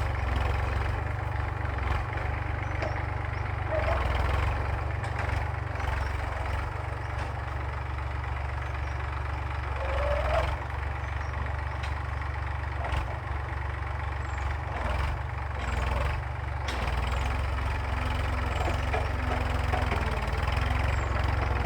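Massey Ferguson tractor engine running steadily, a continuous low drone.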